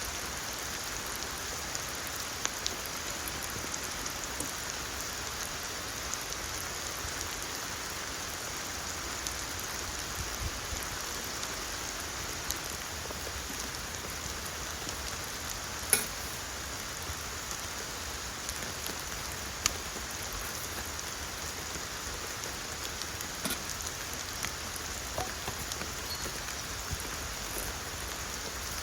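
Steady rain falling, with a few scattered sharper drop taps; the loudest tap comes about halfway through.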